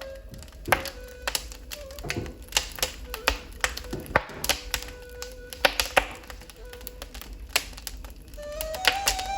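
Wood fire in a fireplace crackling with sharp, irregular pops. A ney flute holds a low note underneath and moves into a higher melody near the end.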